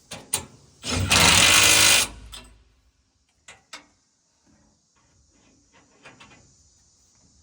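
Impact wrench hammering in one burst of about a second, about a second in, working a bolt during a combine concave change; a couple of short clicks follow.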